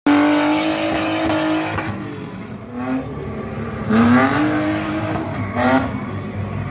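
Stunt drift car's engine revving hard, held high at first, then rising in pitch in surges about three, four and five and a half seconds in, with tyres squealing as the car drifts on concrete.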